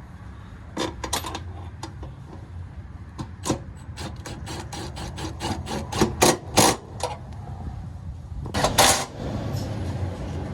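Metal hand tools clicking and clinking in a run of sharp clicks that come faster and louder past the middle, then a louder rattle near the end.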